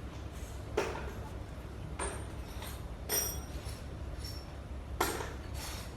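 Metal parts being handled, clinking sharply about five times over a steady low hum.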